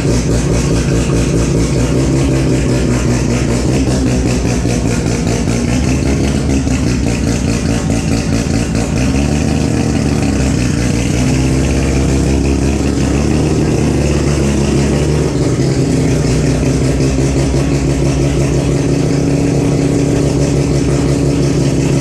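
Turbocharged 13B rotary engine in a Toyota Starlet drag car running, its revs rising and falling again and again.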